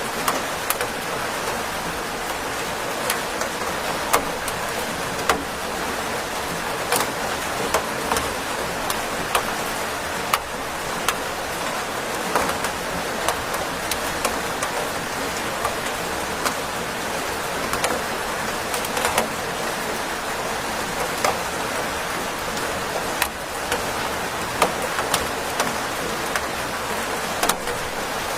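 Steady rain falling, an even hiss with many sharp drop taps scattered through it.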